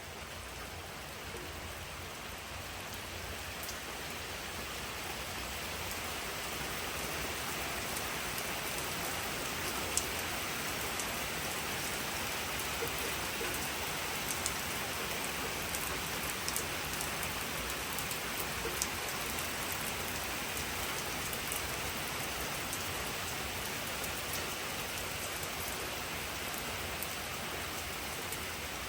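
Steady rain falling, a constant even hiss with a few sharp single-drop clicks scattered through it. It grows slightly louder over the first several seconds.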